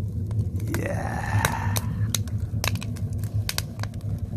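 Wood fire crackling in a stone firebox, with irregular sharp snaps and pops over a steady low rumble. A brief rising tone comes in about a second in.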